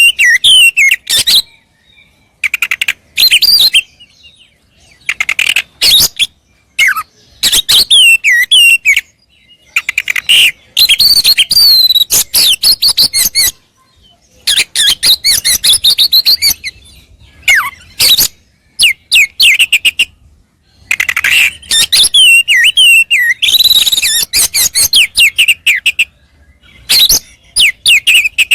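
Oriental magpie-robin (kacer) singing a loud, varied fighting-mood song. Bursts of whistled, gliding phrases and rapid harsh chattering notes come one after another with short pauses between them.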